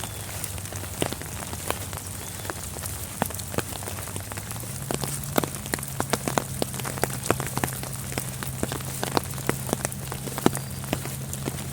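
Rain falling steadily, with many close, sharp drop taps that come thicker from about halfway through. A low steady hum runs underneath and steps up in pitch about halfway.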